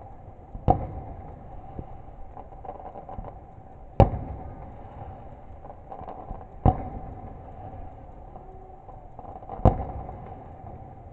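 Fireworks going off: four loud, sharp bangs roughly three seconds apart, with faint crackling between them over a steady hum.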